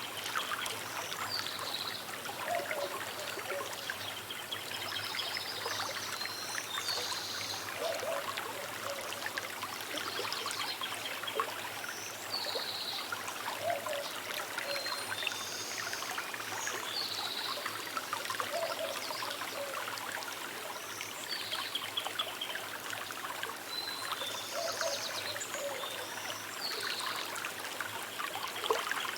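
Small river babbling and trickling steadily, with short higher-pitched notes recurring every second or two over the flow.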